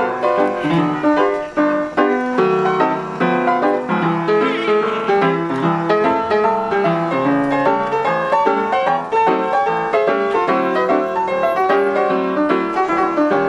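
Background piano music: a quick run of melody notes over chords.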